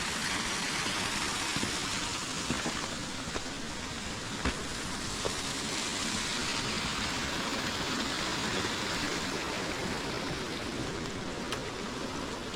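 A forest river flowing with a steady rushing sound, with a few faint clicks over it.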